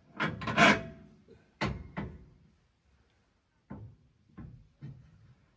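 Metal clanks and knocks from suspension parts and tools being handled, a loud cluster of strikes near the start with a brief metallic ring, another clank a second later, then a few lighter knocks.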